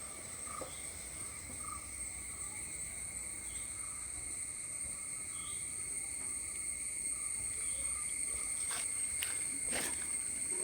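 Insects shrilling steadily in two continuous high tones, with scattered soft chirps and a few sharp clicks near the end.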